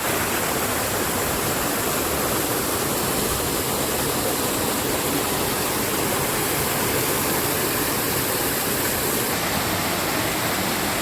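Steady rushing water, an unbroken roar like a waterfall or fast stream.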